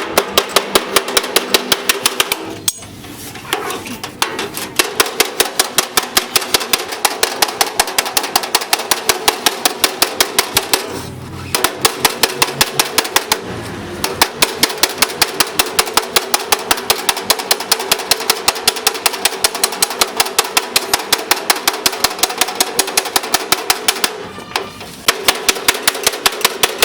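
Hammer beating a car door's sheet metal in a rapid, even rhythm of about four to five blows a second, the panel ringing, with a few short pauses between runs.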